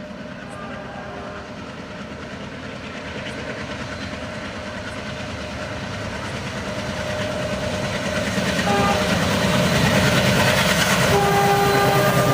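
Diesel locomotive approaching at high speed, its engine and rail rumble growing steadily louder. A short horn note sounds about two-thirds of the way in, then a long, loud horn blast near the end as it draws close.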